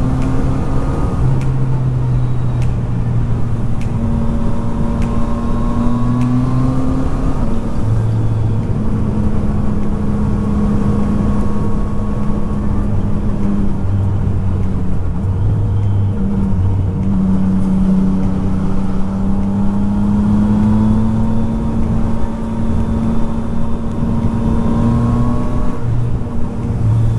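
Yamaha MT-09 inline three-cylinder motorcycle engine running under way, its pitch rising and falling with the throttle and stepping at gear changes, over a steady rush of riding wind.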